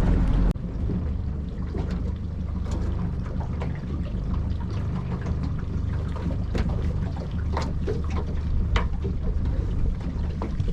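Boat's motor idling with a steady low hum, with water trickling and scattered sharp clicks and knocks over it. The level drops sharply about half a second in.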